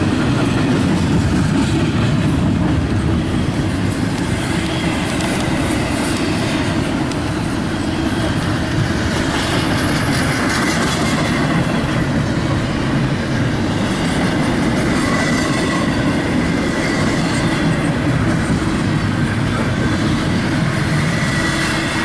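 CSX intermodal freight train's double-stack well cars rolling past: a loud, steady rumble of wheels on rail with clickety-clack, and a faint high-pitched wheel squeal now and then.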